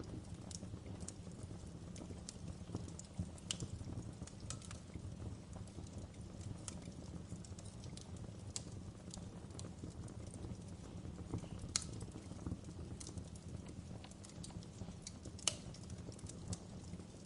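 Wood fire crackling: irregular sharp snaps and pops over a steady low rumble of burning, with two louder pops, one about twelve seconds in and one near the end.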